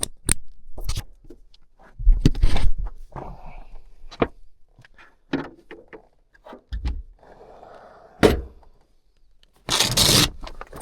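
Hands working on an electrical junction box: a string of light clicks and knocks, with bursts of scraping and rustling. The loudest bursts come about two seconds in and near the end.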